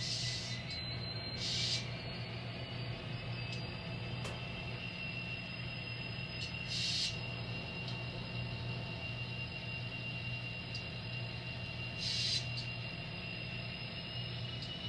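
N scale model diesel locomotive backing up: a steady low hum with a thin high whine that slowly rises in pitch, and a few short hisses.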